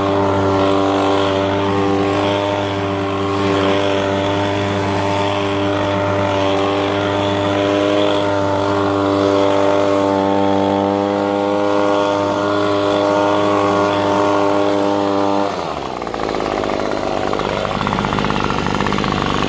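Echo leaf blower's two-stroke engine running steadily on a newly fitted replacement carburetor. About fifteen seconds in, the steady note breaks and drops to a lower, rougher sound.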